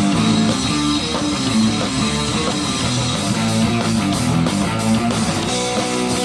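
Live punk rock band playing an instrumental passage: distorted electric guitar chords over bass and drums, without vocals.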